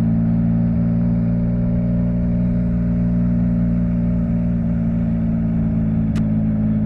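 Yamaha MT-09's three-cylinder engine, fitted with an Akrapovič exhaust, running at steady, unchanging revs while the motorcycle cruises. A short click comes about six seconds in.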